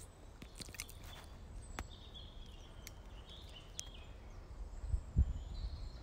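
Birds calling faintly in woodland: thin, high whistled notes about two seconds in and again near the end, with a few soft clicks early on and a low thump about five seconds in.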